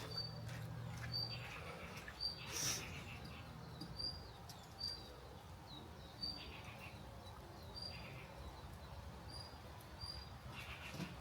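A bird repeating one short, high chirp about once a second, with occasional faint crackles and clicks in between.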